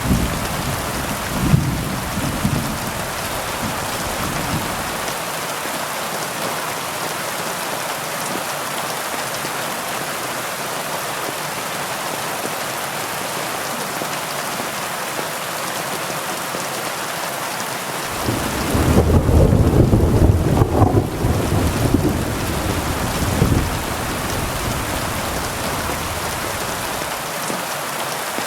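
Heavy rain falling steadily, with a low rumble of thunder dying away over the first few seconds and a louder roll of thunder about two-thirds of the way through.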